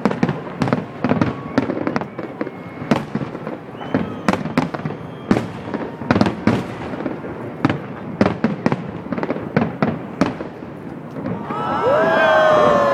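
Aerial fireworks bursting in quick succession, a dense run of sharp bangs and crackles. Near the end several overlapping whistling tones rise and fall together for about two seconds, the loudest part.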